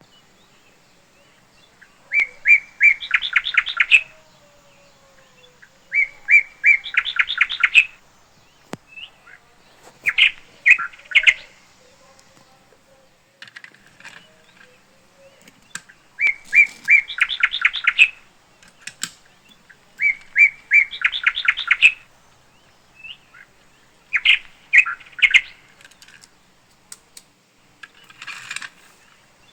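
A songbird repeating the same short song phrase, a quick run of rapid chirps lasting about two seconds, roughly every four seconds.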